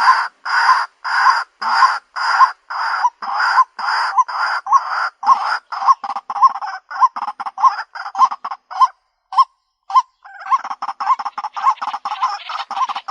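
White-breasted waterhen calling: a loud, steady series of harsh, grating notes, a little under two a second. About halfway the notes grow shorter and quicker. They break off for about a second, then resume at a fast pace.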